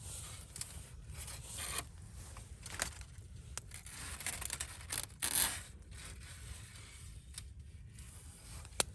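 Irregular scraping and rustling handling sounds in short bursts, the loudest about five seconds in, with a single sharp click near the end.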